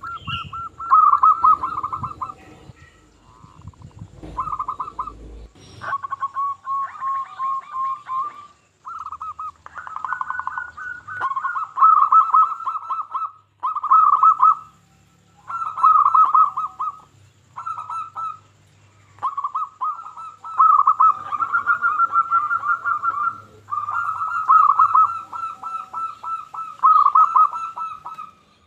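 Zebra dove (perkutut) cooing over and over: rolling, trilled phrases, each a second or two long, with short pauses between them.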